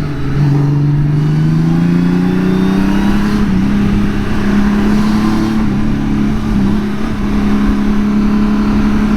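2018 Honda Gold Wing's flat-six engine pulling hard in sport mode, its pitch rising over the first three seconds as the bike accelerates, then holding steady at speed, with wind and road noise.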